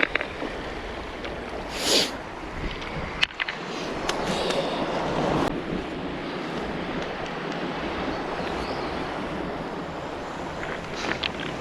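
Surf washing onto a cobble beach, with wind on the microphone; a wave swells louder about four to five seconds in. A short rush about two seconds in and a single sharp click just after three seconds stand out.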